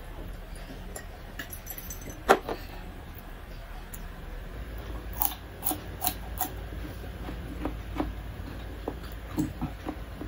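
One sharp knock about two seconds in, a glass mug set down on a wooden table, then close-up chewing of fresh cucumber slices: irregular crisp crunches and mouth clicks, several a second at times.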